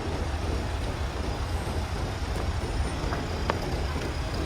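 Heavy rain on a city street mixed with passing traffic: a steady hiss over a low rumble, with a couple of faint ticks about three seconds in.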